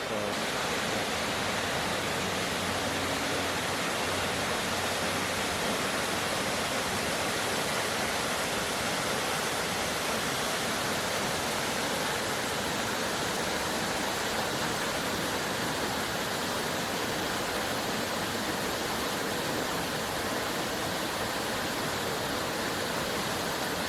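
Large waterfall pouring over a ledge: a steady, even rush of heavy falling water.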